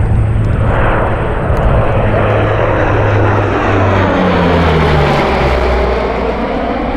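Large military cargo aircraft flying past, its engines making a loud steady drone that drops in pitch about four to five seconds in as it passes.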